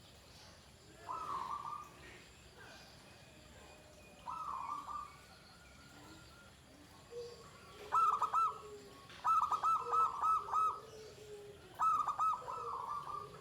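Perkutut (zebra dove) singing: short phrases of quick, shrill coos, one about a second in and another about four seconds in. From about eight seconds on come longer runs of rapid repeated notes, with lower notes between the phrases.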